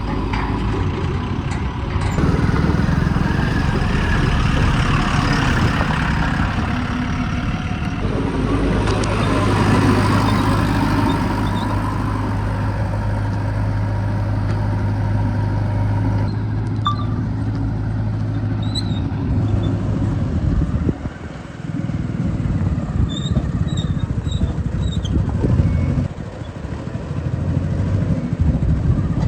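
Heavy diesel engine of earth-moving machinery at a JCB backhoe loader and tipper-truck dig, running steadily with a deep hum. Its tone and level shift several times, with two brief drops a little past the middle.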